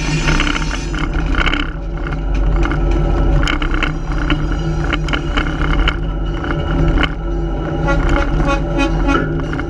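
Train running along the track, pulled by a switcher locomotive: a steady engine hum with repeated clicking and clacking from the wheels and cars.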